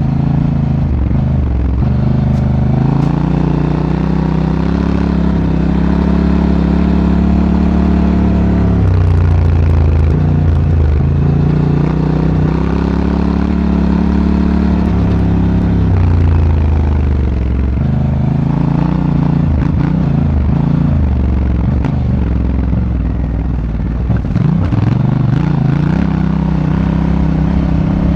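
Honda Africa Twin's parallel-twin engine under way, its pitch climbing and dropping back again and again as the rider accelerates, eases off and shifts.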